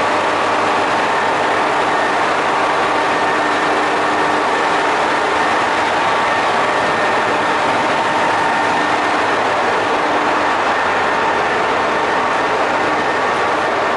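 A train standing at a station platform, its equipment running with a steady hum and several faint held tones.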